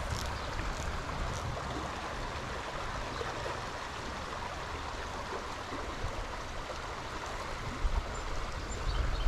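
Running water of a small stream, a steady rush and splash over the riffles.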